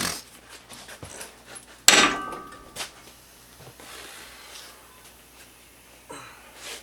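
Tools and metal parts being handled: a loud clank about two seconds in that rings briefly, with a few lighter knocks and clicks around it.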